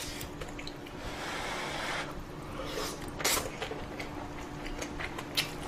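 Close-up eating sounds of a person eating ramen and kimchi: a noisy slurp of noodles from about one to two seconds in, small chewing clicks and smacks throughout, and one louder short noise just past three seconds. A faint steady hum runs underneath.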